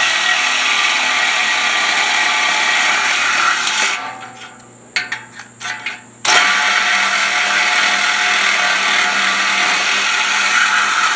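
Power tool cutting through the stock steel exhaust pipe, slow going where it meets an old weld. It runs steadily, stops for about two seconds in the middle with a few short blips, then runs steadily again.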